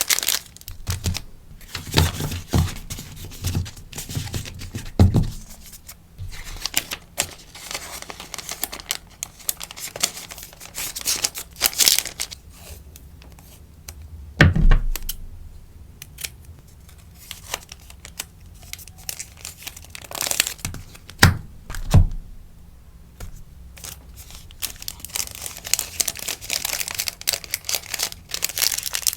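Rustling and crinkling of sticker packaging being handled, with tearing sounds and a few soft knocks about 5, 15, 21 and 22 seconds in.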